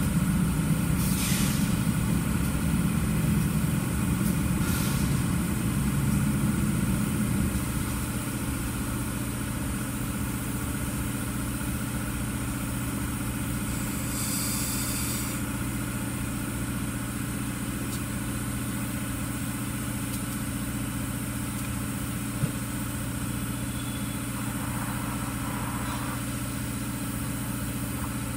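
BNSF diesel-electric freight locomotives running as they move past, a steady low engine hum that is loudest for the first several seconds, then settles into a quieter steady sound as the train's intermodal cars roll by. A short hiss comes about halfway through.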